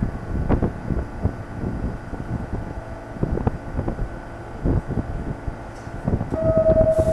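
New York City subway train running on the track, its wheels clattering with many irregular knocks over a constant low rumble. Near the end a steady high tone begins and then steps down to a lower one.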